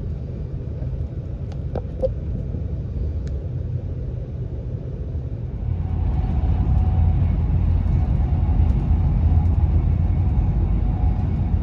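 Class 390 Pendolino electric train running at speed, heard as a steady low rumble from inside the carriage. The rumble grows louder about six seconds in, and there are a few faint clicks about two and three seconds in.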